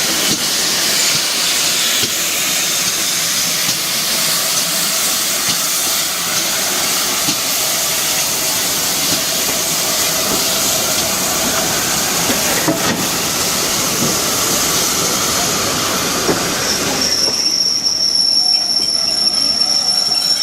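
Steam train running on the line with a steady rushing, hissing noise; about three-quarters of the way through, a sustained high-pitched squeal of the wheels on the rails sets in.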